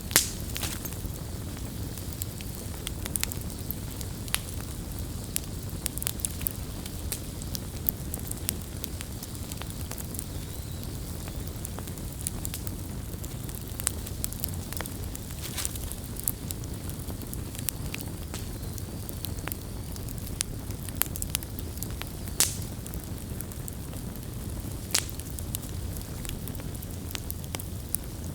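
Campfire crackling: a steady low rumble of burning wood with irregular sharp pops and snaps scattered throughout, a loud pop at the very start and a few more standing out later.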